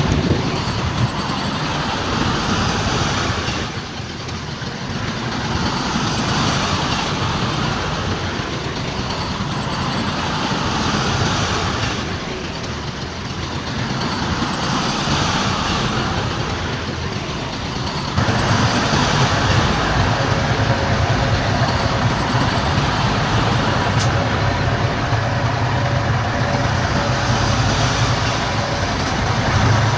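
Heavy diesel earthmoving machinery running steadily, getting louder about eighteen seconds in.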